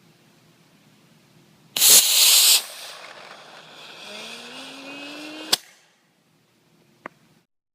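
Estes A10 model rocket engine igniting with a sudden loud hiss that lasts under a second as it fires the truck forward, then a quieter hiss with a faint rising whine for about three seconds, ended by a sharp pop typical of the engine's ejection charge.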